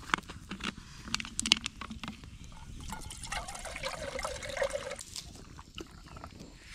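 Liquid poured into a cup for about two seconds, while coffee is being made. Before it come several sharp clicks and knocks of cookware being handled.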